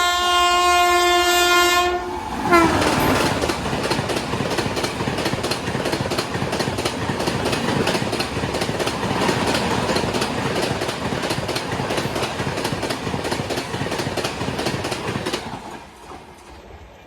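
An Indian Railways express train passing through a station at speed without stopping. The locomotive horn sounds for the first two seconds and its pitch drops as the locomotive goes by. A long rapid clatter of coach wheels over the rail joints follows, dying away near the end.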